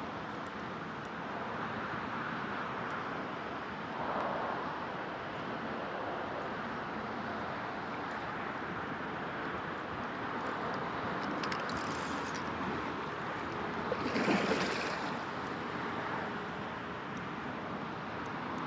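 Steady outdoor hiss of wind, with brief louder swells about four seconds in and again near fourteen seconds.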